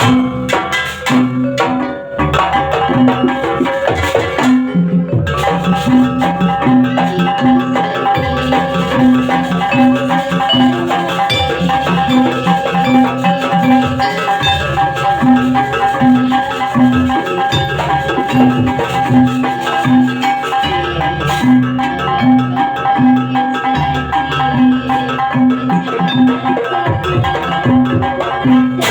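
Banyuwangi barong accompaniment music: drums and mallet-struck metallophones playing a steady repeating rhythm, with a long held tone above it from about five seconds in.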